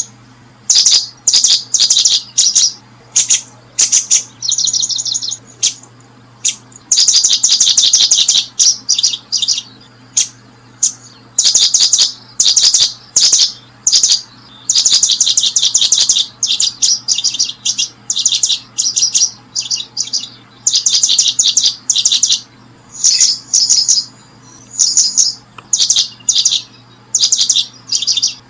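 Small birds chirping in rapid, high-pitched bursts, each a half second to two seconds long with short gaps between. A faint low steady hum runs underneath.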